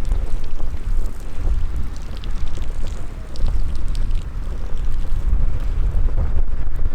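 Wind buffeting the microphone in a steady low rumble, with a few faint crackles from a small wood fire in a mini fire pit about halfway through.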